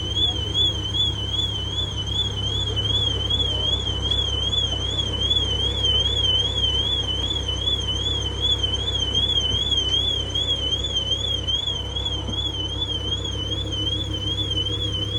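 A high-pitched electronic alarm warbling up and down about three times a second, over a steady low rumble.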